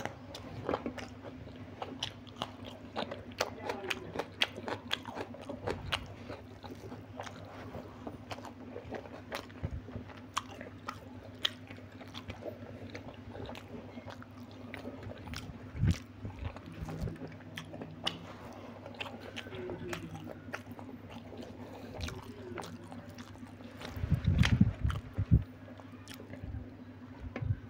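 Close-miked eating: a person biting and chewing egg biryani and green chilli eaten by hand, with wet mouth clicks and crunches throughout over a steady low hum. A few low thumps stand out, the loudest cluster about three-quarters of the way through.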